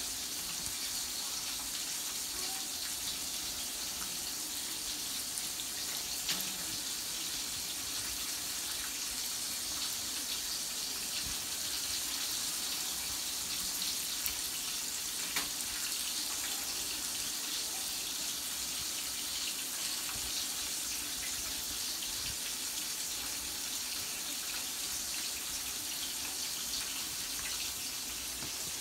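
Turkey chops frying in a skillet, a steady sizzle with a few faint pops.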